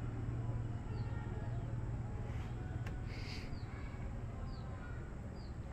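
About four short, high bird chirps, each falling in pitch, over a steady low rumble.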